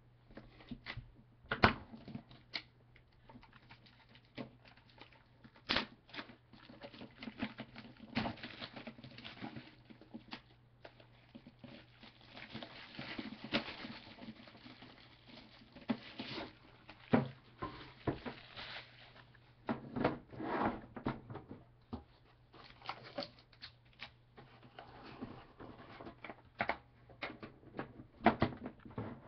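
Trading cards and their plastic and paper packaging handled on a table: scattered irregular taps and clicks with stretches of rustling, over a steady low hum.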